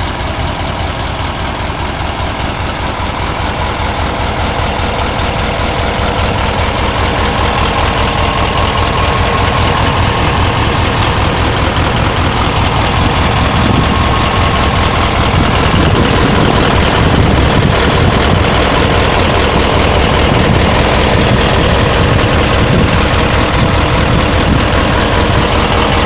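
Hino EF750 V8 diesel engine idling with a steady, fast low beat. It slowly grows a little louder over the first fifteen seconds or so, then holds even.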